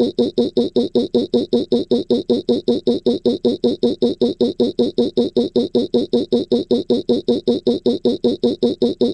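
A synthesized cartoon voice rapidly repeating one short voiced syllable over and over, about six or seven times a second, in a machine-like stuttering laugh.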